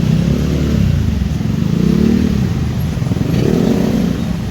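Road traffic: motorcycles and other motor vehicles passing close by one after another, each engine note swelling and falling away over a steady rumble.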